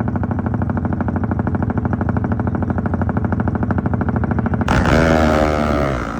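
Motorcycle engine running with a fast, steady pulse. About four and a half seconds in it suddenly gets much louder, and its pitch then falls toward the end.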